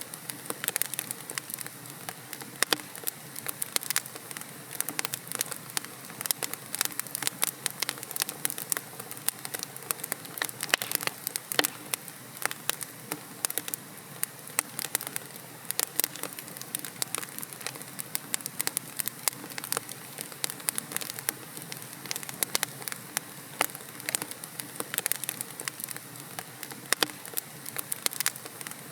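Wood fire in a fireplace crackling, with many small sharp pops and snaps at irregular intervals, several a second, over a steady soft hiss of burning logs.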